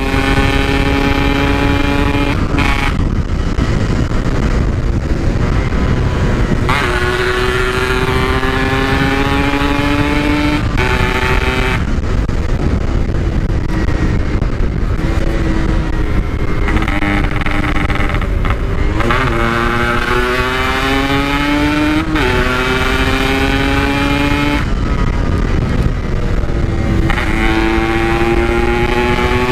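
Yamaha RX-King's two-stroke single-cylinder engine, heard through its stock-look packed exhaust, run hard through the gears. The engine note climbs, breaks at each gear change and climbs again, many times over, over a low steady rush.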